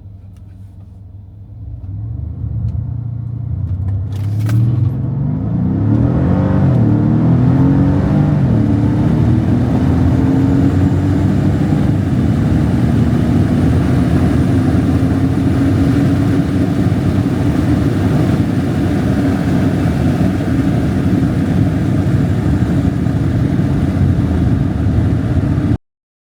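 Mercedes SL500 V8 engine accelerating hard, its pitch and loudness climbing over the first several seconds, then running loud and steady under full throttle before cutting off suddenly near the end.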